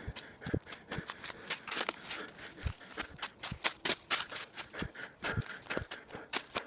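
Footsteps on a trail: quick crunching, scuffing steps with an occasional heavier thud.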